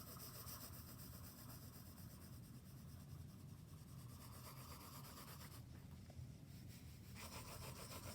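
Faint scratching of a drawing tool on paper, sketching continuous looping ellipses, with a break of about a second and a half around two-thirds of the way through as the tool is lifted.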